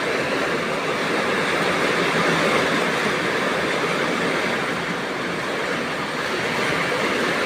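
Heavy rain pouring down with strong wind: a steady, dense rushing noise that eases slightly about five seconds in.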